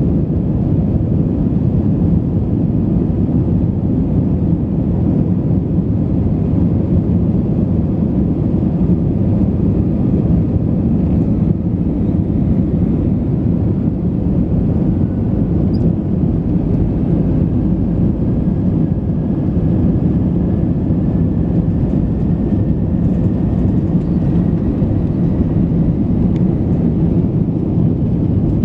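Airbus A319 cabin noise during takeoff: a loud, steady low rumble of the jet engines and airframe. About halfway through, a faint tone begins to rise slowly in pitch.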